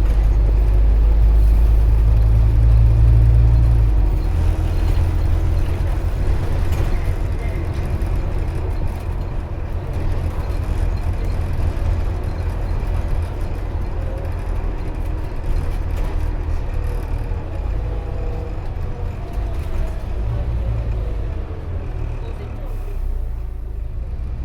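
Scania OmniCity double-decker bus heard from inside while on the move: a steady low engine and drivetrain rumble that shifts in pitch about four seconds in, with a faint whine drifting in pitch later on.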